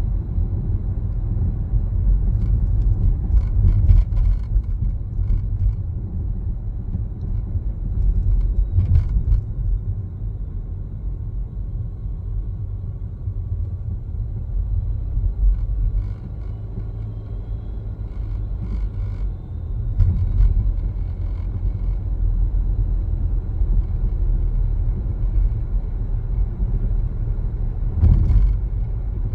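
A car driving: steady low road and tyre rumble, with a few brief knocks, the sharpest about four seconds in, around nine and twenty seconds in, and near the end.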